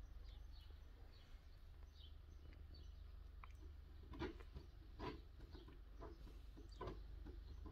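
Near silence with a low steady hum, faint small-bird chirps coming in from outside, and three brief soft rustles about four, five and seven seconds in.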